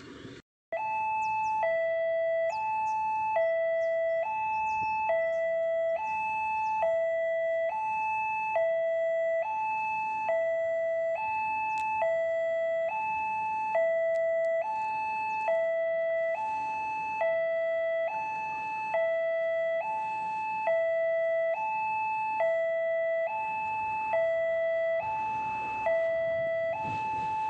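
Indonesian level-crossing warning alarm sounding its electronic two-tone ding-dong, a higher and a lower tone alternating about once a second, the signal that a train is approaching. It starts abruptly just under a second in.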